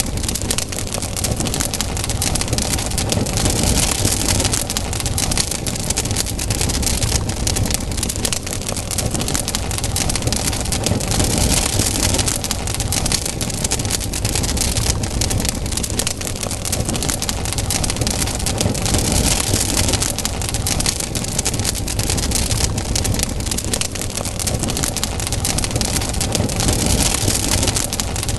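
Wood campfire burning, with steady dense crackling and small pops over a low rush of flame.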